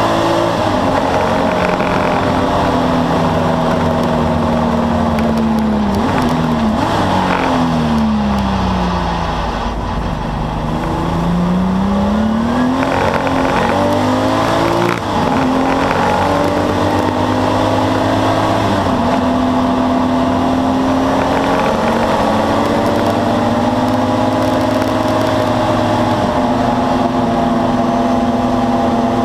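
Air-cooled flat-six of a Porsche 964 race car heard from inside the cockpit under hard driving. The revs hold high, fall away for a few seconds about six seconds in as it slows, then climb again. There is a short break at a gear change about fifteen seconds in.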